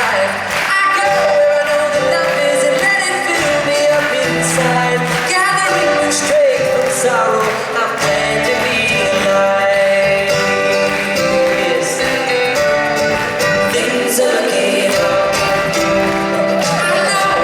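Live band music with singing voices over instruments: a pop song played by the band on stage.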